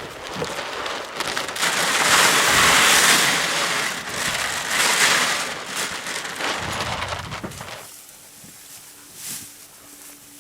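Cattle feed poured into a trough, a steady rushing hiss of grain that ends abruptly about eight seconds in.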